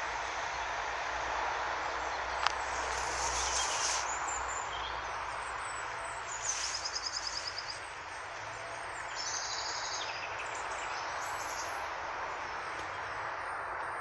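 Steady outdoor background hiss with a songbird singing: a fast trill of about ten notes around the middle, then scattered chirps and a thin high whistle. A faint low rumble dies away in the first few seconds.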